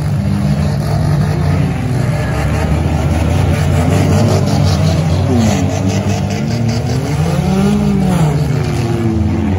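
Several demolition derby cars' engines running together, revving up and down as they push and ram one another, their pitch rising and falling over a steady low drone.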